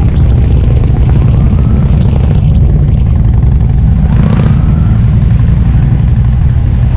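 Harley-Davidson V-twin engine running steadily under way, a loud, continuous low rumble.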